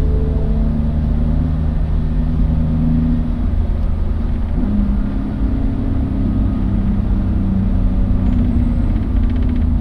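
Car engine running under way, heard from inside the car over a heavy low road rumble. The engine note drops out about three and a half seconds in and picks up again about a second later.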